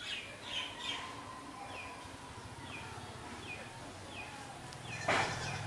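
A bird calling over and over, short high chirps that slide downward, repeated about once a second. Near the end, a short loud burst of noise.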